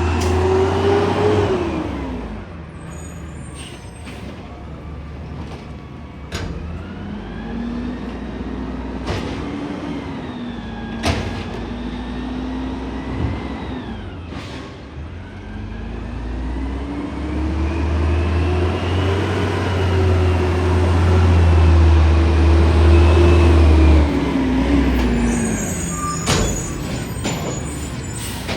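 Garbage truck engine revving up, holding high revs for several seconds and dropping back, three times over, with several sharp metallic clanks along the way.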